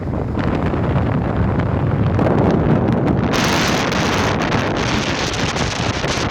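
Strong wind buffeting the microphone, a rough low rumble with a rushing hiss that turns brighter and fuller about three seconds in.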